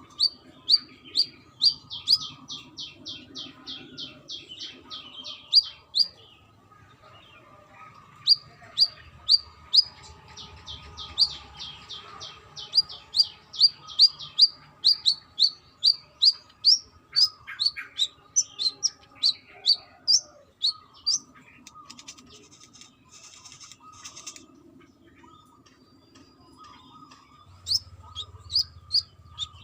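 Brown-throated sunbird (kolibri kelapa) singing: runs of sharp, high chirps about three a second. A long run is followed by a short pause, then a longer run, and a brief run returns near the end.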